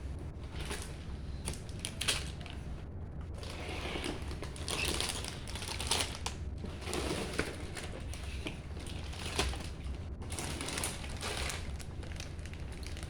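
Lego bricks being handled, with irregular small plastic clicks, clatters and rustling while pieces are picked up and fitted together.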